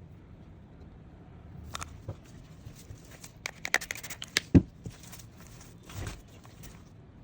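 Scattered small clicks, taps and rustles of hands and tools handling a resin-coated plate. There is a cluster of quick ticks in the middle and one sharper knock about four and a half seconds in.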